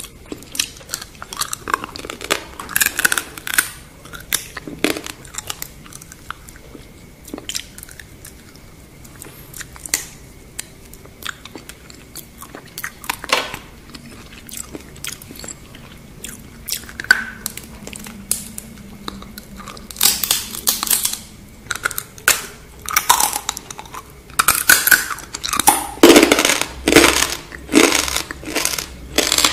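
Close-miked crunching and chewing of deep-fried scorpion: crisp, irregular crackles, growing louder and denser in the last third.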